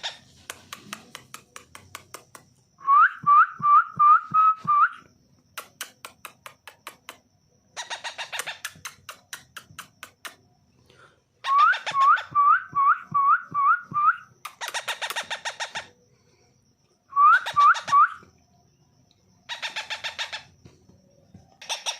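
Baby parrot chick, about fifteen days old, calling: bursts of rapid raspy begging chirps alternate with three louder runs of short rising whistled notes, five or six a second.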